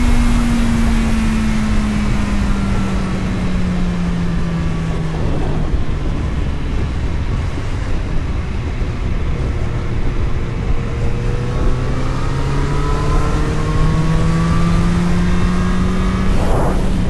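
Vehicle engine during a drive. Its pitch drops over the first few seconds as the vehicle slows, stays low for a while, then climbs steadily as it accelerates again, over a constant low road and wind rumble.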